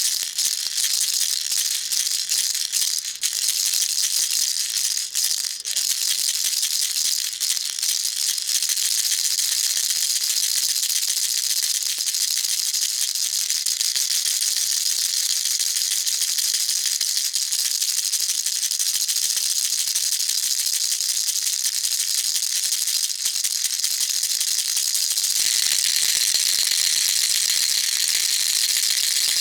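Baby rattle shaken quickly and without pause, a continuous high rattling of small pellets. About 25 seconds in, the tone changes and becomes thinner and brighter.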